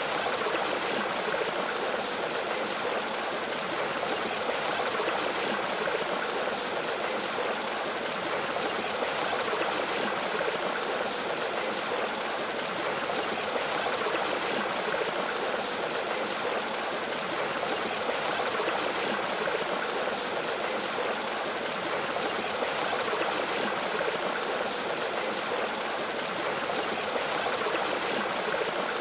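A mountain stream flowing over a small waterfall, its rushing and gurgling water sounding as a steady, even hiss.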